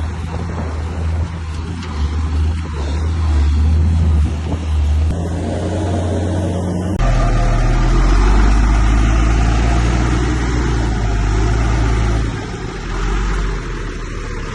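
Heavy diesel engine of earthmoving machinery running steadily under load. About seven seconds in, the sound changes abruptly to a deeper, louder engine note.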